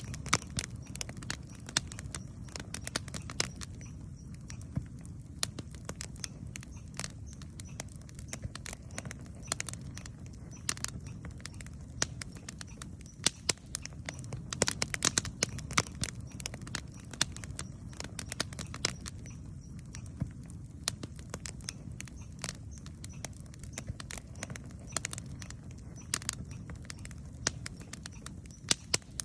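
Wood campfire crackling and popping, with irregular sharp snaps that come thickest about halfway through, over a steady low rumble.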